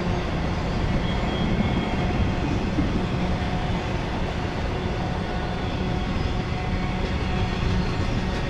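Freight train of enclosed autorack cars rolling past: a steady low rumble of steel wheels on rail that does not let up.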